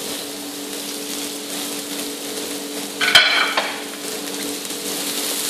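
Chopped onion, garlic and ginger sizzling in hot oil in a wok, with a steady low hum underneath. About three seconds in, a wooden spoon scrapes and stirs briefly against the wok.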